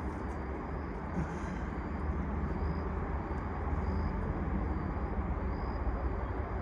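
Outdoor background: a steady low rumble with a broad hiss, swelling slightly and easing, like distant traffic or an aircraft far off, with a faint high chirp repeating about once a second.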